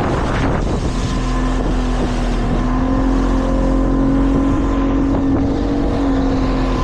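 Motorboat engine running steadily under way, its tone coming through clearly about two seconds in, over the rush of wind and water on the microphone.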